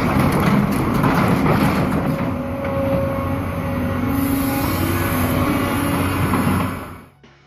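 Volvo EC290B excavator's diesel engine running hard under load, with mechanical rattle, stopping abruptly near the end.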